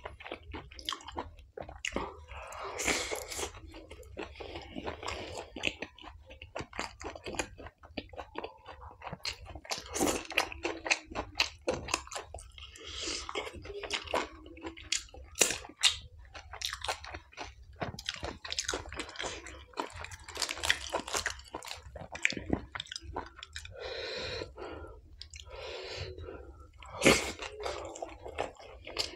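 A man chewing mouthfuls of chole bhature (fried bhatura bread with chickpea curry) close to the microphone, with many short wet clicks of the mouth between chews.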